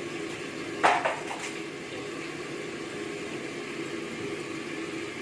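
A sharp clatter of kitchen utensils on a dish about a second in, followed by a softer knock, over a steady background hiss and hum.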